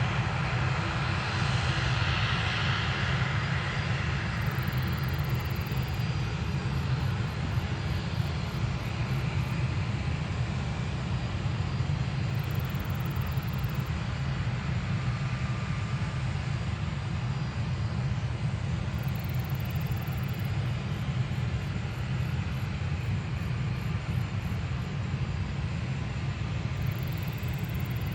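Airliner engines running, a steady low rumble with a hiss on top that is strongest for the first few seconds and then eases.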